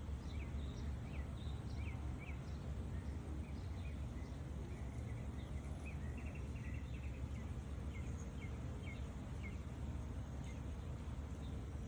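Outdoor ambience: a steady low rumble with scattered short bird chirps throughout, and a brief rapid trill about halfway through.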